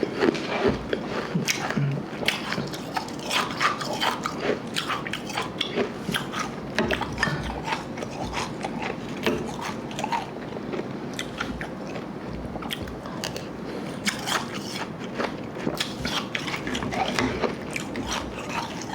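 Ice being chewed close to the microphone: slush ice mixed with Igloo ice crunched in a continuous run of rapid, crackling crunches and clicks.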